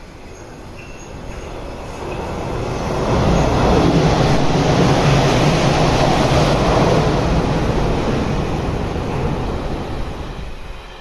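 Hanshin 7861-series 'Akadō' electric train passing close by: wheels rumbling on the rails, growing louder over the first few seconds, staying loud for several seconds as the cars go by, then fading as the train moves away.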